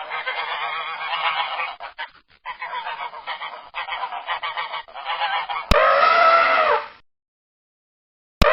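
A flock of geese honking, many calls overlapping. About two-thirds of the way through it cuts to a louder single drawn-out animal call that drops in pitch at its end. The same call repeats near the end after a short silence.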